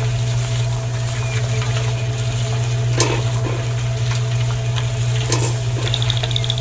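A steady low machine drone, like a small engine running, with a few short clicks and scrapes over it.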